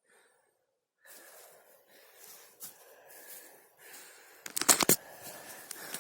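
Wooden bow-drill spindle rubbing and squeaking against its fireboard in uneven back-and-forth strokes, starting about a second in, with a burst of sharp knocks near the end; the attempt does not raise a fire.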